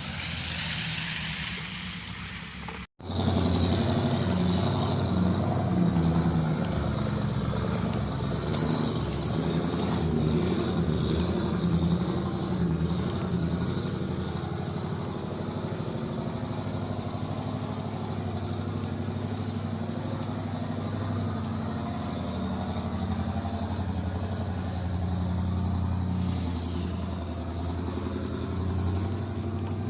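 Rain hiss for about the first three seconds, then a motor vehicle engine running steadily with a low hum over road noise.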